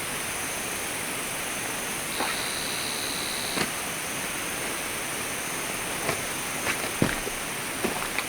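Steady rushing noise, like running water or wind, with a handful of sharp clicks or crackles scattered through it and a brief high steady tone for about a second and a half a couple of seconds in.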